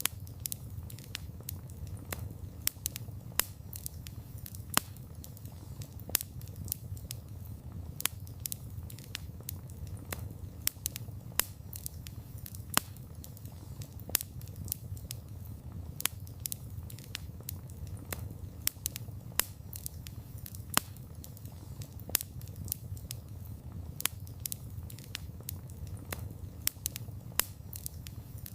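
Campfire of burning wood crackling, with sharp irregular pops and snaps several times a second over a low, steady rumble of the flames.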